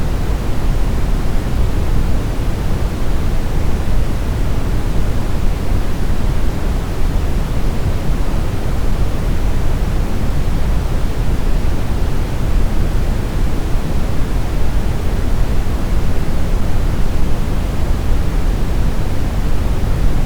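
Steady brown noise: a smooth, deep rumbling hiss with most of its energy in the low end, unchanging throughout.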